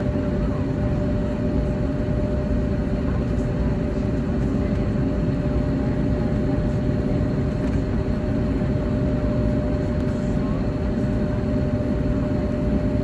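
Steady cabin noise inside an Airbus A321neo: a constant rush of engine and air noise with two steady hum tones running through it.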